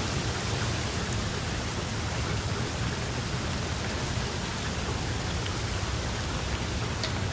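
Steady rain falling, an even hiss with a low rumble underneath and the odd distinct drop.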